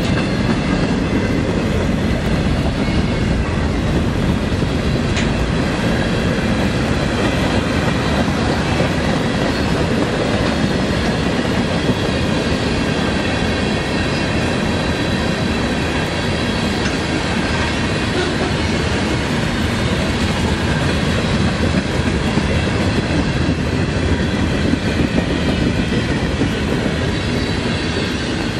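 Freight cars of a CSX train rolling steadily past at trackside: a continuous rumble and clatter of wheels on rail, with thin high ringing tones above it.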